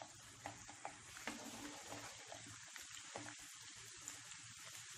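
Potato slices and sliced onion sizzling faintly in oil in a nonstick frying pan over a medium-low flame, with a spatula stirring and turning them and giving small scrapes and taps.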